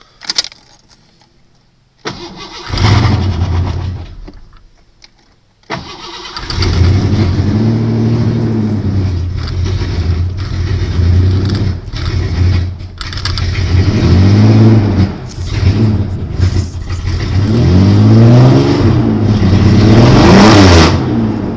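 1986 Ford Ranger engine starting: it comes up about two seconds in and fades out, catches again a few seconds later, and keeps running while it is revved up and down several times.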